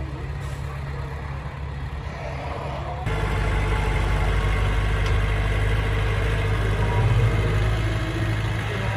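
Heavy diesel engine of earthmoving machinery running steadily, with an abrupt step up in loudness about three seconds in.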